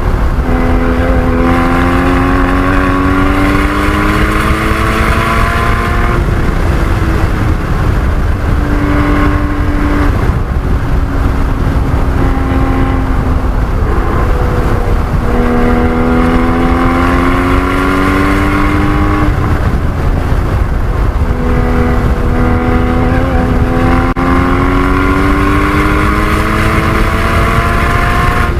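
Porsche 981 Cayman GT4's flat-six engine at full throttle on a lap of a race track, climbing in revs in long pulls that fall back or break off several times as the driver shifts or lifts for corners. A heavy rumble of road and wind noise runs under it.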